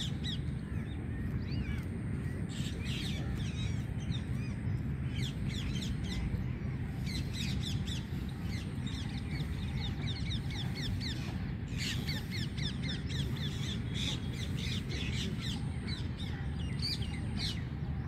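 Many birds chirping and calling together in quick, short notes, over a steady low rumble.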